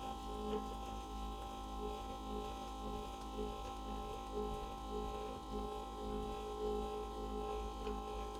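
Steady electrical hum with several constant tones and a deep low drone, plus a faint tone that pulses on and off repeatedly.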